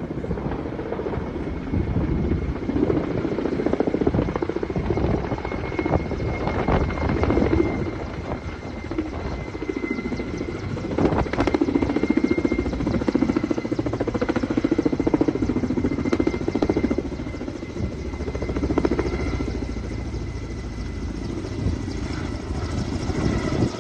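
Helicopter flying: continuous rotor chop with a steady high whine, swelling louder and easing off a few times.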